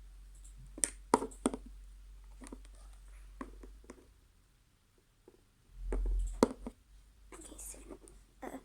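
Slime being kneaded and stretched by hand, with shaving cream worked in: irregular sticky clicks and squelchy crackles in short clusters, and a dull bump about six seconds in.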